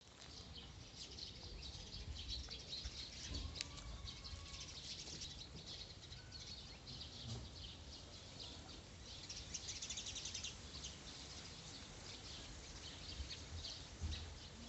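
Small birds chirping in the background, many faint overlapping calls, with a quick rapid trill about ten seconds in.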